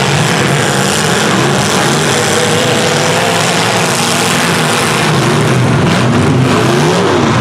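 Engines of several demolition derby trucks and SUVs running together under loud, dense noise. Engine pitch rises and falls in repeated revs near the end.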